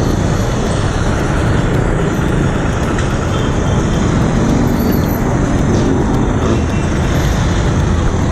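Steady road traffic noise of cars and buses, heard from a moving road bike, with low wind rumble on the microphone.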